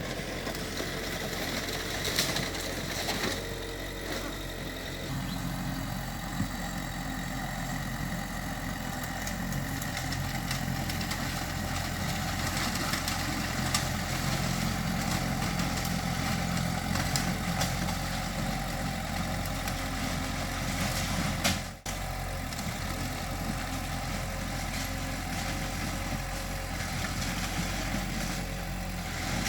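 Diesel engine of heavy earthmoving machinery running steadily at low revs, with a few sharp metallic clanks. The sound drops out briefly about two-thirds of the way through.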